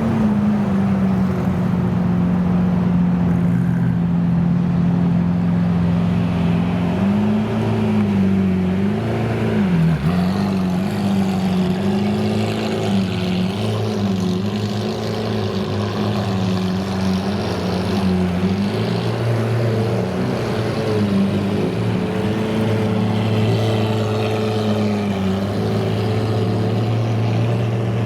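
Car engine running with a steady note, its pitch wavering up and down for several seconds from about seven seconds in, with a brief sharp dip near ten seconds.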